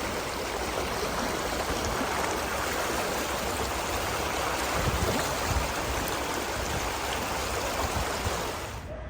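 Fast-flowing floodwater rushing, a steady noise that cuts off abruptly near the end.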